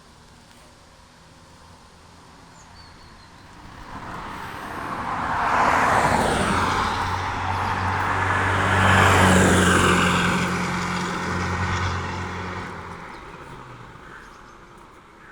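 A motor vehicle passing by: tyre and engine noise with a low engine hum swells about four seconds in, holds for several seconds, then fades away near the end.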